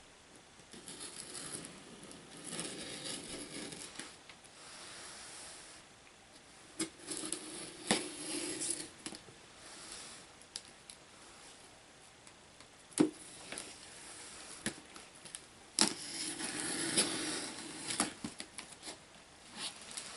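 A shipping box being opened by hand: the packaging is handled and rustled in several noisy stretches, with a few sharp clicks in between.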